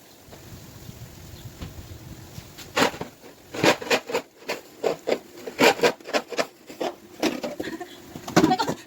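Snow crunching and scraping in a quick, irregular run of short strokes, roughly two or three a second, starting about three seconds in after a quieter stretch.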